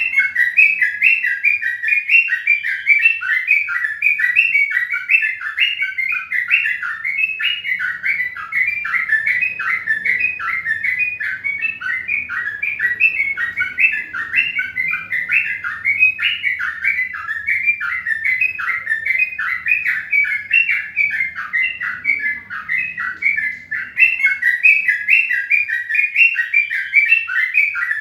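Small birds chirping in a steady, dense stream of quick, short chirps, several a second, without a break.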